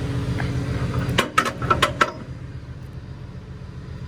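A quick run of five or six sharp metal clinks a little over a second in, as a ratchet strap's metal hook is handled. Under them is the steady low hum of a running engine, which drops away after the clinks.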